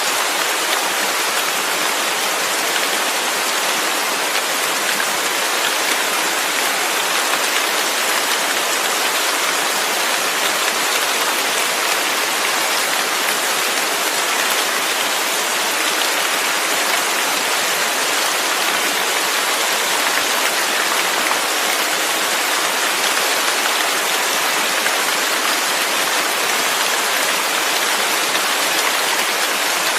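Steady rain falling, an even hiss of many drops without thunder or other events.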